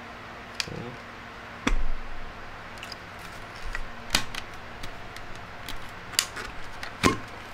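Clicks and knocks of a blender's jar and parts being handled and set down, with a heavier thump a little under two seconds in and sharp clicks near the middle and the end.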